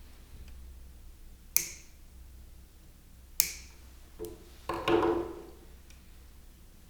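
Objects being handled at a workbench: two sharp clicks about two seconds apart, then a few knocks with a brief ringing tone.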